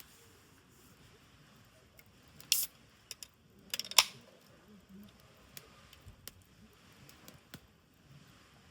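Small clicks and knocks of tableware being handled. The loudest is a sharp metallic clink about four seconds in.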